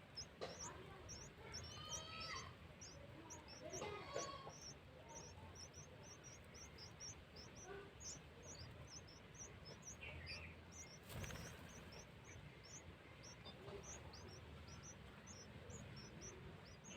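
Young birds in a nest chirping, short high thin calls repeated two or three times a second without a break, typical of nestlings begging for food. A few louder, lower calls come in around two and four seconds in.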